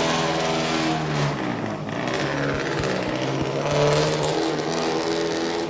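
Rally car engine revving as the car sets off. The engine note drops a little over a second in and climbs again around four seconds in.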